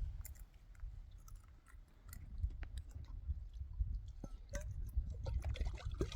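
A person chewing: soft, irregular clicks and crunches over a low rumble.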